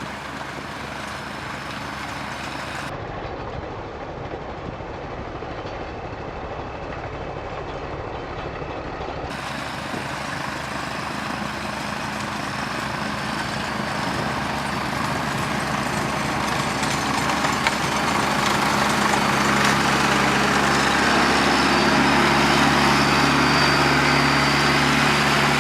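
Engine of a sidewalk snow-clearing machine running steadily, with a low drone that grows louder toward the end as it comes closer.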